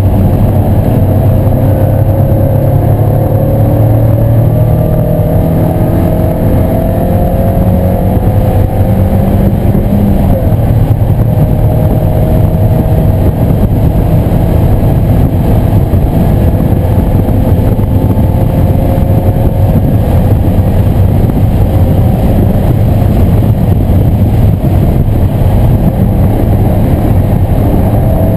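1997 Mazda Miata's 1.8-litre four-cylinder engine running hard on track, heard from on board over a heavy low rumble. Its note climbs slowly through long pulls, with a fresh pull starting about ten seconds in.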